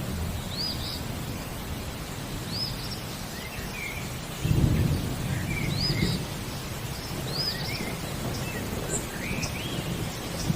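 Steady rain with a low roll of thunder that swells about four and a half seconds in. Over it, birds call: a short arching chirp repeated four times, with softer, lower notes between.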